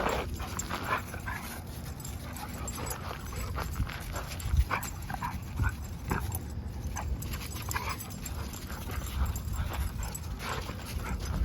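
Two dogs play-fighting: irregular scuffling, pawing and thumps of bodies and feet, with occasional short whines.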